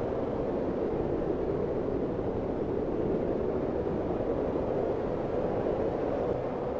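Steady blizzard wind, an even rushing noise that holds its level without gusts or breaks.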